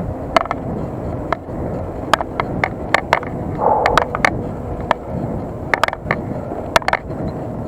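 Bicycle ride noise heard through an action camera: a steady low rumble of wind and tyres on the road, with scattered sharp clicks and rattles from the bike and mount.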